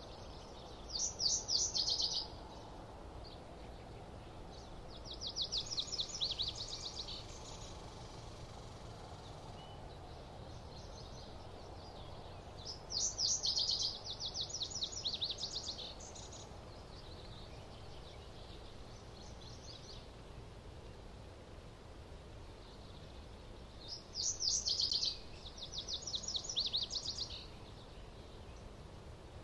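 A small songbird sings a quick trill of high, rapidly repeated notes four times, some songs in two parts, over a faint steady background hiss.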